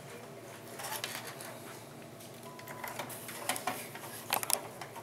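Small clicks and scuffs of a screwdriver and screws working against a computer case while motherboard screws are being driven in: a brief scraping about a second in, then a quick cluster of sharp clicks near the end.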